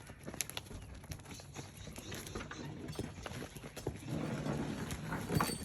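Miniature donkeys' hooves clopping and shuffling on the ground as the animals move about, irregular sharp clicks with a denser rustling stretch from about four seconds in.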